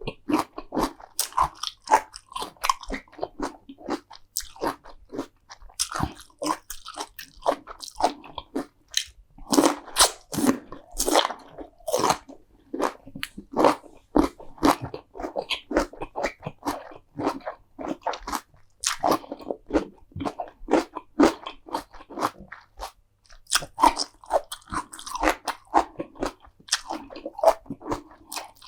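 Close-miked crunchy eating: repeated bites and chewing of crisp food, a rapid run of sharp crunches with brief pauses between mouthfuls.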